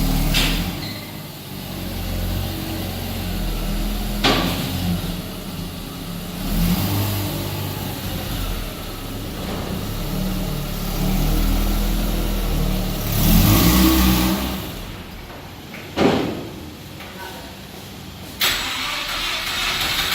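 Mazda RX-8's twin-rotor Wankel rotary engine running at low speed, rising briefly about two-thirds of the way in and then cutting off. There are sharp knocks about 4 seconds in and about 16 seconds in.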